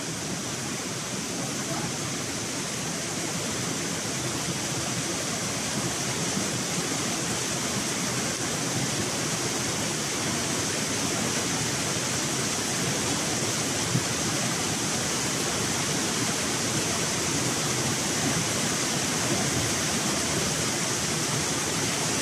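Heavy rain pouring steadily onto a lake surface, an even, dense hiss, with one brief sharper tap about two-thirds of the way through.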